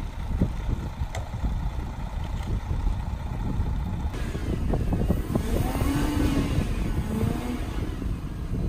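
Wind buffeting the microphone over a snowplow truck's engine running. About four seconds in it gives way to a car engine revving as the car's wheels spin in snow, its pitch rising and falling for a few seconds.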